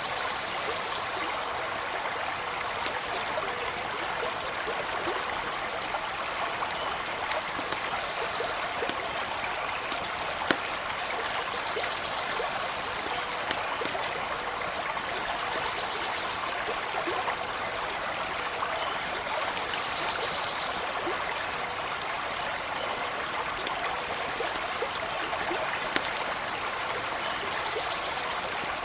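Small stream running and trickling steadily, with occasional sharp campfire crackles scattered through it.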